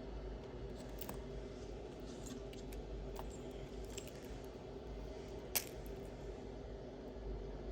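Costume jewelry being handled: a few light clicks and clinks of metal and glass pieces, with one sharper click about five and a half seconds in, over a steady low room hum.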